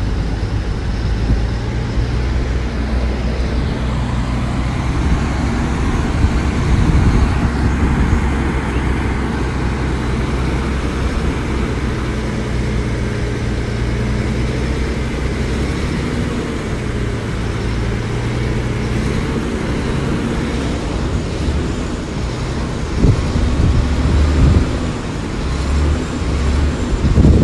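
Heavy diesel engine of earthmoving machinery running steadily, with a few louder low surges a few seconds before the end.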